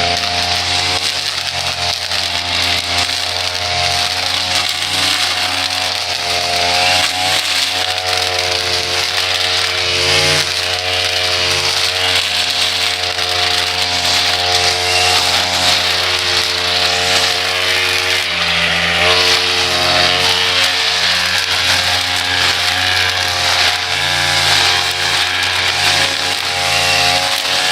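Small engine of lawn-care power equipment running steadily, its pitch drifting slightly up and down as it works, with a dense hiss over it.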